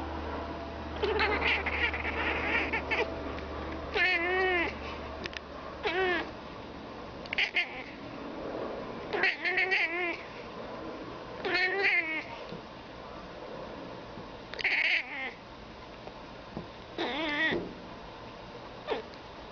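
A domestic cat chattering at birds: a series of about nine short chirping meows with a quavering pitch, spaced a second or two apart.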